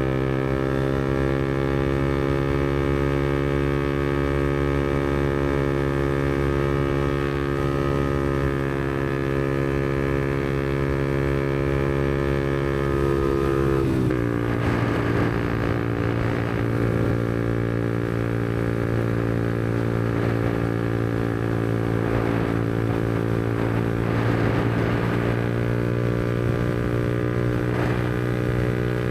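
Yamaha MT-125's single-cylinder 125cc engine running through a Black Widow aftermarket exhaust while riding, its note rising slowly and steadily. About halfway through the pitch drops suddenly, then holds steady at the lower note.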